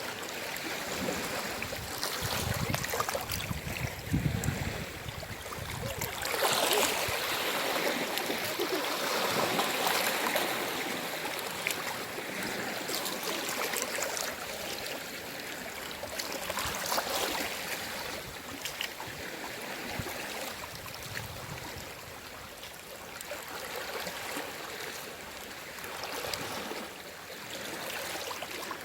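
Gentle sea waves lapping and washing ashore, swelling and easing every few seconds, with a fizzing splash as each one breaks, loudest in the first third.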